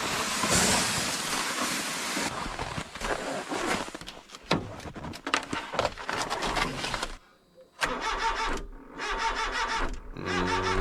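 A truck engine cranking over and over without catching, the starter turning in a rhythmic run that stops briefly and starts again. It sounds like a battery drained by the cold. A rush of noise comes before the cranking.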